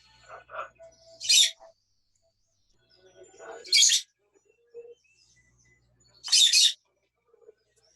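Pet parrot giving three short, loud, harsh calls about two and a half seconds apart, with softer chirps and chatter between them.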